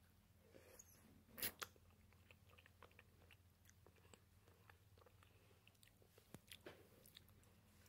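A person biting and chewing food close to the microphone: soft crunches and wet mouth clicks, with two louder crunches about a second and a half in and a few more near the end.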